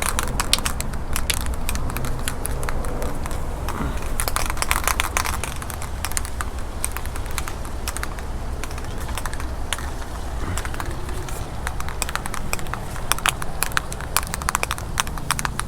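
Aerosol spray-paint can of primer being shaken, its mixing ball rattling in irregular bursts of sharp clicks, over a low rumble of wind on the microphone.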